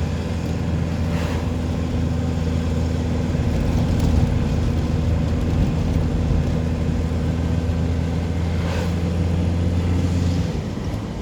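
A vehicle engine running steadily with a low drone, which drops in pitch about ten and a half seconds in.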